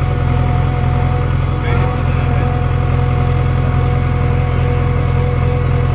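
Heavy diesel engine running steadily at a constant speed, with a steady whine above its low rumble.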